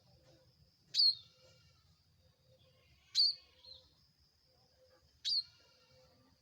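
Ciblek (a prinia) giving a shrill call three times, a short sharp chirp about every two seconds.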